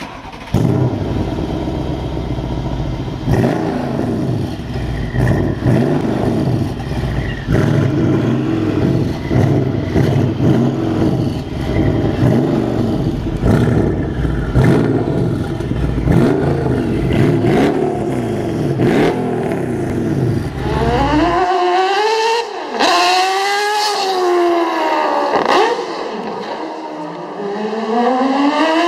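Mercedes-Benz CLS63 AMG's 5.5-litre twin-turbo V8 with catless downpipes being revved over and over, a deep rumble rising and falling about once a second. About 21 seconds in it gives way to a higher-pitched car engine with little bass, its pitch climbing and dropping repeatedly as it is driven hard through the gears.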